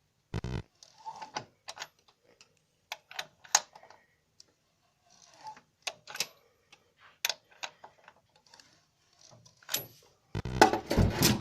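Irregular short squeaks and clicks from a Mitsubishi Sirius engine: the intermittent squeak it has developed. Near the end a loud rushing, scraping noise comes in.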